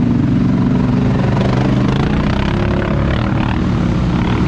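ATV engines running loud and steady, their pitch stepping up and down now and then with the throttle.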